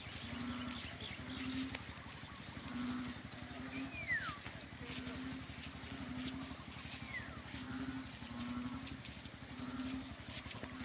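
Birds calling: many short high chirps that each slide down in pitch, with a few longer downward-gliding whistles, over a low, regular pulse about one and a half times a second.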